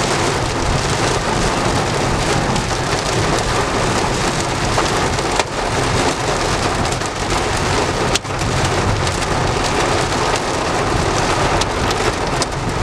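Heavy downpour during a severe thunderstorm falling on a car, a dense steady hiss with a few sharp ticks.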